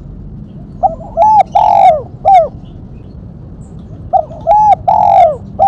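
Spotted dove (tekukur) cooing twice in the same four-note phrase: a short note, a rounded coo, a longer drawn-out coo, then a short closing note. The two phrases come about three seconds apart over a steady low hiss.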